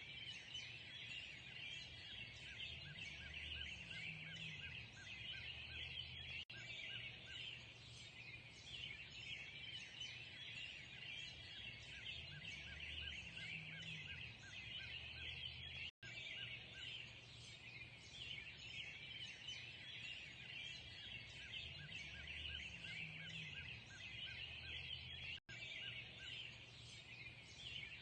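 Dawn chorus of many small birds chirping and twittering continuously, a steady dense mass of high calls. The same stretch repeats about every nine and a half seconds, with three brief dropouts.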